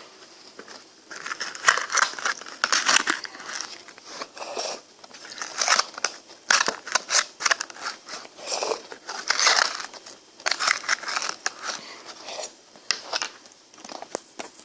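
Close-miked biting and chewing of frozen ice cream: irregular bursts of crisp crunching and crackling, a bite or chew every second or so.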